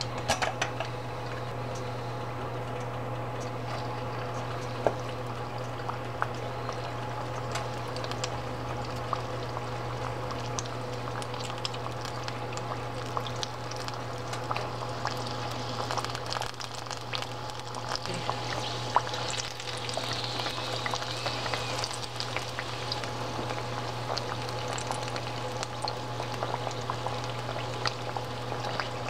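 Cireng (tapioca dough patties) deep-frying in hot oil in a wok: a steady bubbling sizzle that grows stronger past the middle as more patties are in the oil, with a few sharp clicks over a steady low hum.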